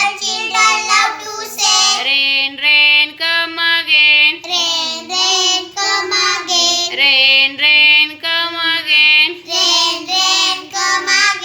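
A child singing a nursery rhyme, short sung phrases one after another with brief pauses for breath.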